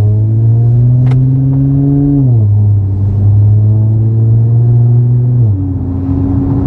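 Infiniti Q50 3.0t's twin-turbo V6 running through 3-inch downpipes and a 2.5-inch custom catback exhaust, held at raised revs and let fall back twice: the note climbs slowly, drops about two seconds in, holds steady again, then falls to a lower idle near the end.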